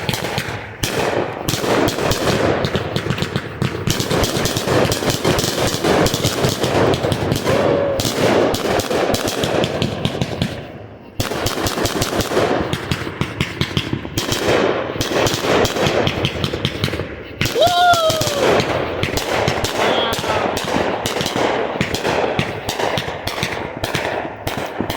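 Fourth of July fireworks going off in a rapid, almost unbroken string of pops and crackles, pausing briefly about 11 seconds in.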